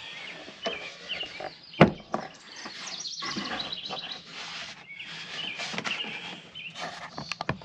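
Birds chirping and singing, with a sharp knock about two seconds in and a few quick clicks near the end.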